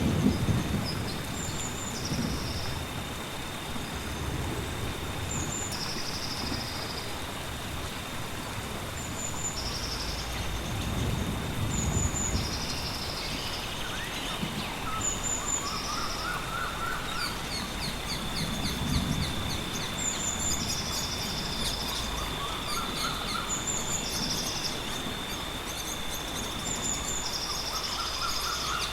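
Rainforest ambience: birds give short high calls over and over, every second or two, and a lower rising call comes about three times in the second half. A steady high insect drone runs under them, and low rumbles of distant thunder roll in a few times.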